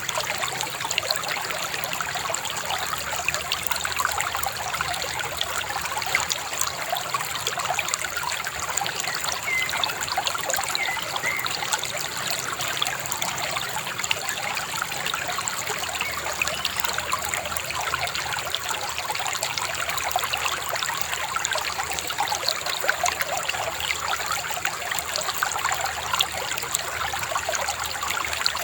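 Shallow river babbling and trickling steadily over stones.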